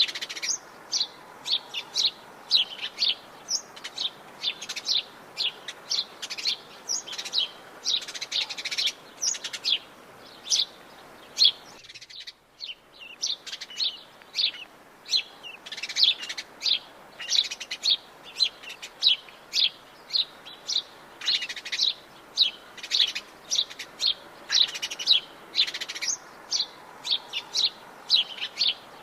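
Dense chorus of wild forest birds chirping, many short high chirps a second overlapping, breaking off briefly about twelve seconds in.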